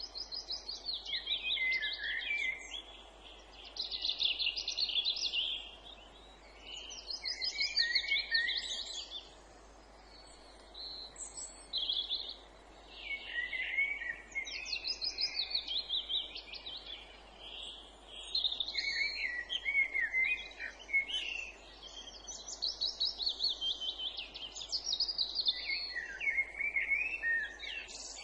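Songbirds singing in a run of phrases of rapid, trilled notes, each phrase a second or two long with short pauses between.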